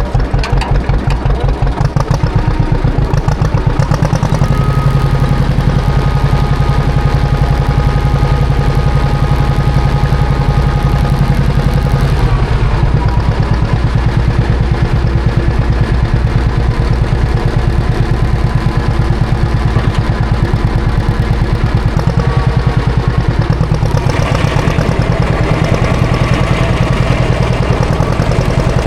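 Classic John Deere tractor engine running steadily with a low, even pulsing beat while plowing snow. Its note shifts about four seconds in and again near the end.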